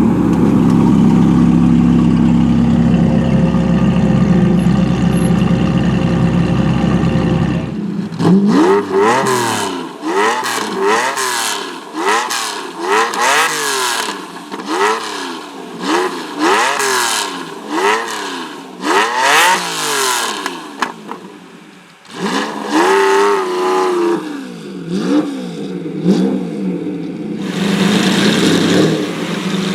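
Lamborghini Diablo GT's 6.0-litre V12 engine running steadily for about eight seconds, then revved again and again in quick blips, each rising and falling in pitch, a dozen or more in a row. It settles briefly, is revved a few more times, and runs steadily near the end.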